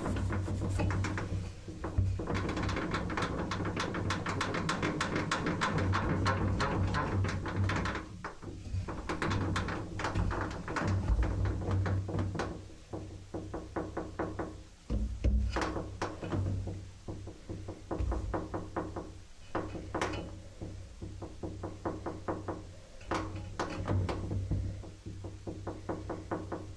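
Arçelik washing machine running with a steady low hum and many irregular knocks and clicks, busiest in the first third: the noises the owner finds abnormal.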